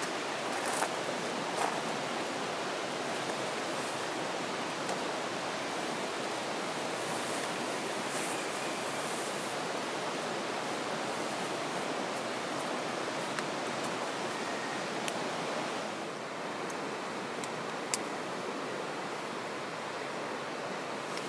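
Steady rushing of a flowing river, an even wash of water noise, with a few faint sharp clicks over it.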